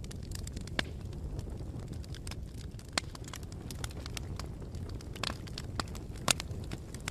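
Bonfire crackling: irregular sharp pops and snaps of burning wood over a steady low rumble of flame, with two louder pops about three seconds and six seconds in.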